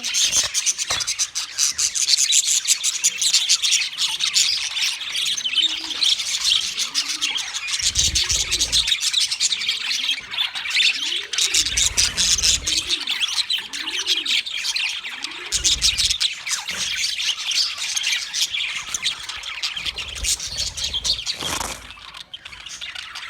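A flock of budgerigars chattering and chirping continuously in a dense stream of fast, high calls. In the middle, a lower call rises and falls about once a second.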